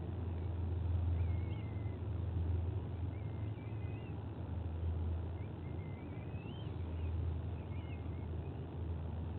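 Steady low rumble from the nest camera's outdoor microphone, with faint high bird chirps, short rising and falling calls, repeating every second or so.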